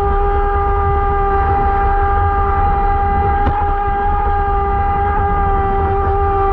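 Electric motor of a radio-controlled boat running at a steady speed: a constant whine that holds one pitch, over a low rumble.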